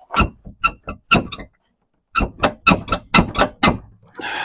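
Two runs of sharp knocks and clicks, with a short pause between them, as a stubborn truck headlight assembly is pried and worked loose with a flathead screwdriver; a brief scrape comes near the end.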